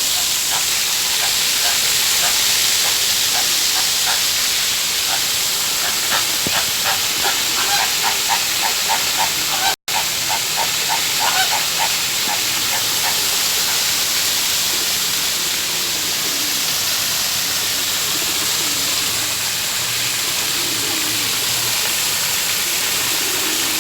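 Birds calling in a quick series of short, repeated notes, about four a second, over the middle of a steady rushing hiss.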